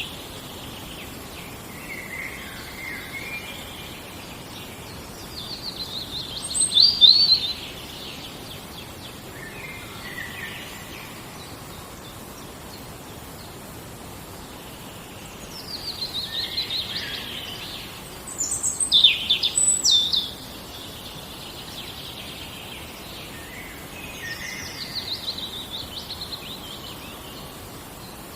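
Songbirds singing in a European forest: short song phrases of one to two seconds, several of them falling in pitch, come every few seconds with pauses between, over a steady faint background hiss. Two of the phrases, about a third of the way in and again past the middle, are louder and closer than the rest.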